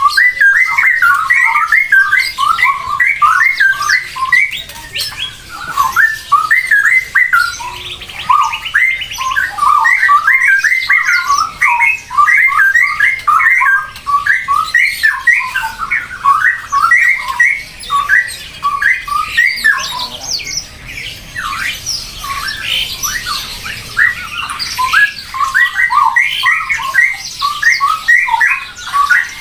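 A flock of birds squawking in rapid, overlapping calls, thinning out briefly about two-thirds of the way through.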